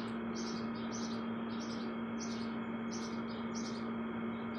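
Baby bird chirping over and over, short high chirps about two to three a second, over a steady low hum.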